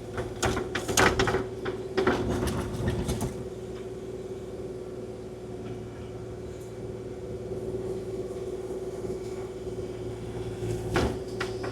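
Kubota KX040-4 mini excavator running steadily with a constant whine, while its bucket scrapes and knocks through gravel and sod in a cluster of sharp knocks over the first three seconds and again briefly near the end.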